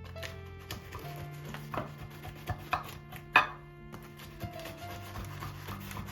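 Knife chopping food on a cutting board: irregular, spaced knocks, the loudest a little over three seconds in.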